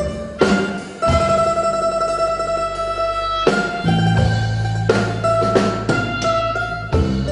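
Folk band playing an instrumental passage with no singing: held chords that change every second or two over a low bass line.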